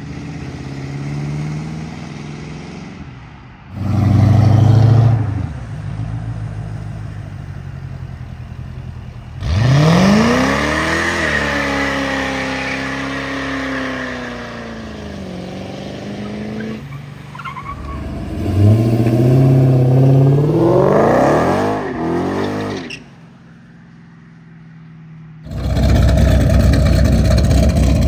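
Several cars accelerating hard one after another, their engines revving up in rising pitch. The loudest pulls come about 4 seconds in, about 10 seconds in, and a long climbing one between about 18 and 22 seconds. A loud steady rushing sound starts near the end.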